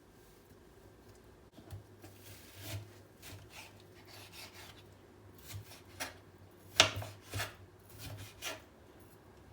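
Irregular scraping and rubbing of kitchen utensils, with a few sharp clicks; the loudest click comes about 7 seconds in.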